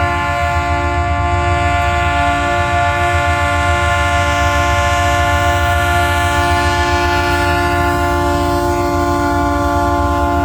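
Ferromex diesel locomotive's multi-chime air horn held in one long, unbroken blast over the low rumble of the engine.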